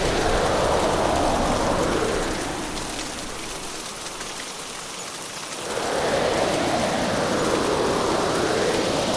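Hurricane ambience: heavy rain with wind coming and going in swells. It eases for a few seconds partway through, then builds back up.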